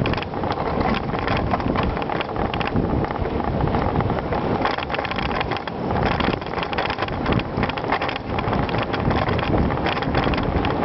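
Bicycle riding over gravel: a steady rush of tyre noise packed with constant small rattles and clicks from the bike, with wind on the microphone.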